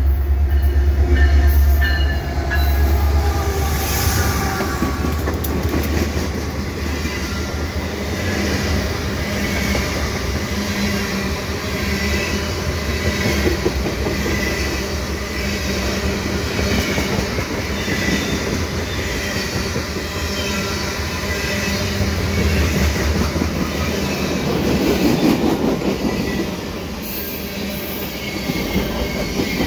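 A CP freight train of covered hoppers and tank cars rolling past at close range: a steady heavy rumble with the clatter of steel wheels over the rails. The deep low rumble is strongest in the first few seconds.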